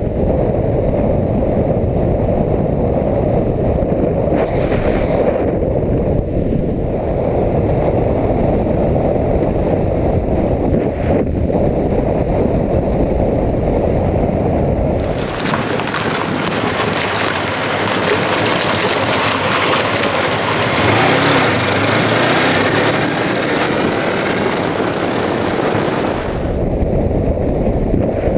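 Wind rushing and buffeting over the microphone of a motorcycle rider's camera at road speed, a dense low rumble. About halfway through it switches abruptly to a brighter, hissing rush for roughly ten seconds, then returns to the low rumble.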